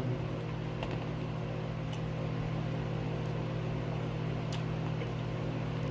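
Steady low hum from a running motor or electrical appliance, holding several fixed tones, with a few faint clicks over it.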